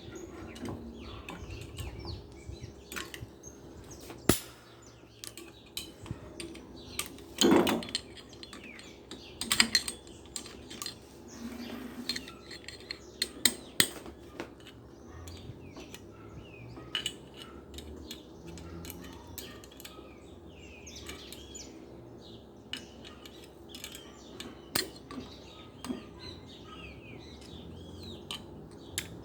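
Scattered metallic clinks and clicks of washing machine motor parts being handled during assembly, with birds chirping in the background.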